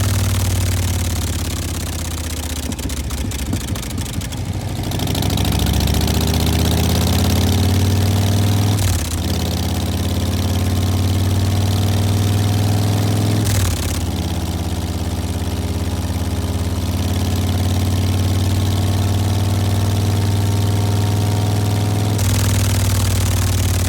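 Harley-Davidson Fat Boy's Milwaukee-Eight 114 V-twin idling through a Vance & Hines Big Radius exhaust, a deep, steady, loud exhaust note. The engine speed shifts a little now and then.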